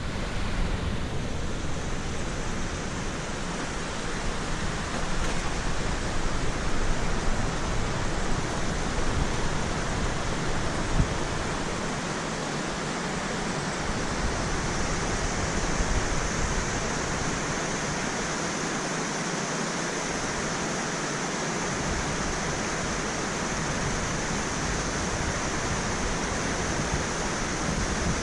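Waterfall's rushing water: a steady, even hiss of falling water.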